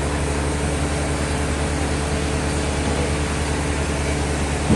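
Sawmill machinery running with a steady low hum, with a short knock near the end.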